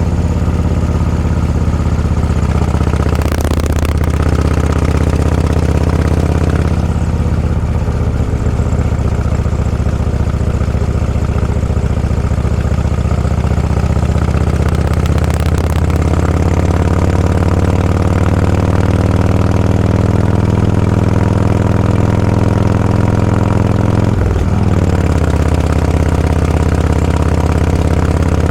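Motorcycle engine running steadily at low revs, its pitch rising gently in the second half with a brief break near the end.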